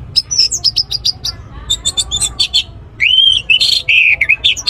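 Orange-headed thrush (anis merah) singing: a quick run of sharp high chirps, then louder slurred whistles from about three seconds in.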